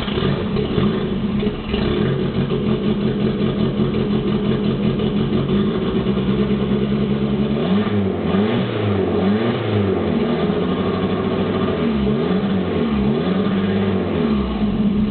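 Turbocharged Dodge Neon four-cylinder engine running just after its first start on a new MegaSquirt fuel-injection setup, rough because it is cold, untuned and running very rich. About halfway through, the revs rise and fall several times in a row as the throttle is worked.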